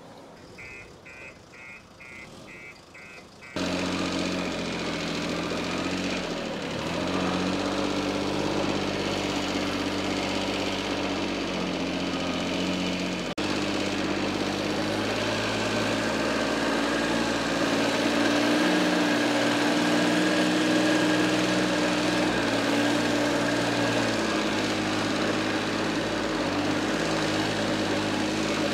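Diesel engine of heavy farm or earthmoving machinery running steadily. It comes in suddenly about three and a half seconds in and drops out for a moment about halfway through.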